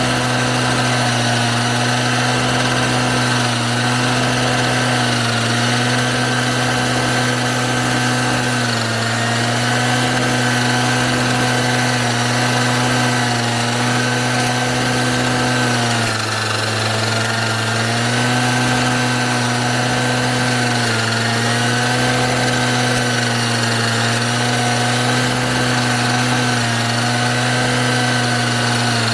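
Self-propelled mower's small engine running steadily at high speed, its note sagging slightly every couple of seconds and more deeply about halfway through as the cutting load varies.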